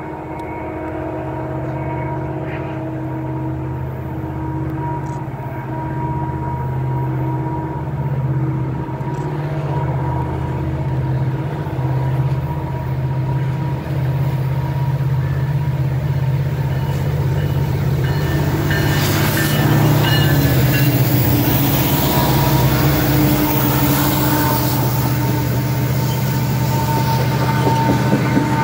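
EMD diesel locomotives hauling a freight train, their engine drone growing steadily louder as they approach. About two-thirds of the way in they pass close and the sound turns into a loud rush of wheel and rail noise as loaded tank cars roll by.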